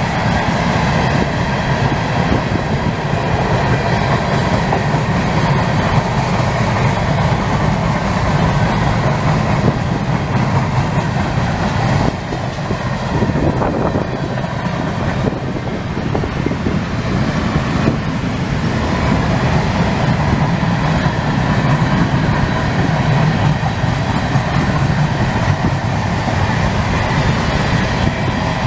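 Freight train cars (tank cars and covered hoppers) rolling past: the steady noise of steel wheels running on the rail.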